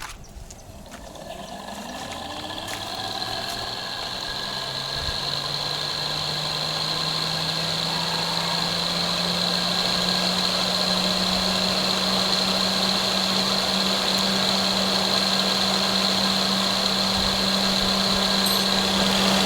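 Used Peugeot 407 engine cooling fan spinning up on a bench test: its motor hum climbs in pitch and gets louder over about ten seconds, then holds a steady run. The owner finds it noisy and judges its bearing weak.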